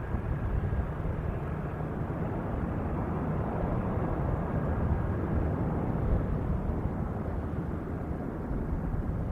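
C-130 Hercules turboprop engines and propellers flying low, a steady rumble that neither swells nor fades much.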